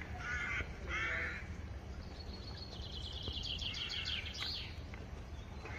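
Birds calling: a few short harsh caws in the first second or two, then a rapid trill of short notes that falls slightly in pitch about halfway through, over a steady outdoor rumble.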